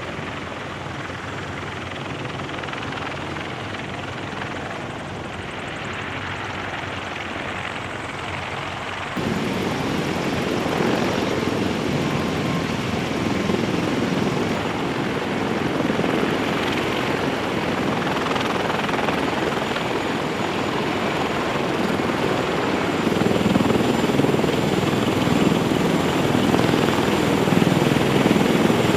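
Military rotorcraft running: a steady rush of rotor and turbine-engine noise that turns suddenly louder and heavier about nine seconds in, and louder again near the end.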